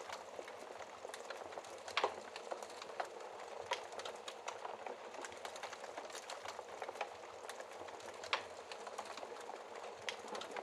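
Wood fire in a fireplace crackling: a steady hiss with many small snaps and a few louder pops, the loudest about two seconds in and again near eight seconds.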